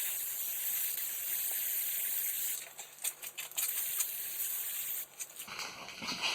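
Fluid Film aerosol can spraying, a high hiss that runs steadily for about two and a half seconds and then comes in several short bursts.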